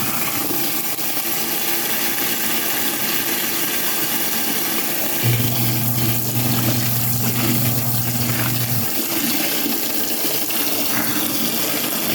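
Kuppet twin tub washer washing a load, its wash motor humming in spells: quiet for the first five seconds or so, running for about three and a half seconds, then stopping again as the pulsator pauses between turns. Sudsy water and clothes churn in the tub throughout.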